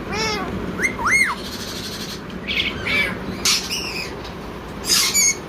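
Blue Indian ringneck parakeet giving a string of about six short, arching squawks and calls, the loudest and harshest one near the end.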